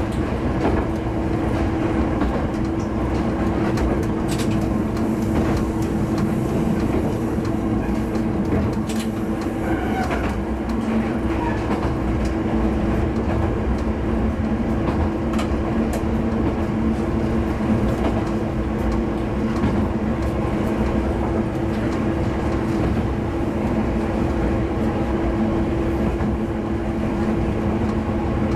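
Diesel railcar running between stations, heard from inside the front car. A steady engine drone sits over a low rumble of wheels on track, with a few faint clicks.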